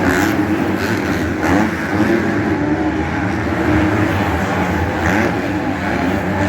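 Motocross bikes' engines revving, their pitch rising and falling as the riders work the throttle, several engines overlapping.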